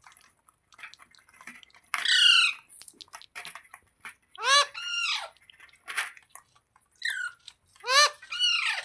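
A parrot giving about four loud, harsh squawking calls, each a quick rise and fall in pitch and some doubled into two parts, with faint clicks in the pauses between them.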